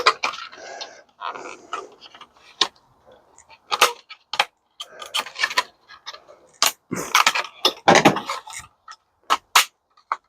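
Irregular clicks, knocks and rattles of metal and plastic parts and tools being handled as a dishwasher is taken apart.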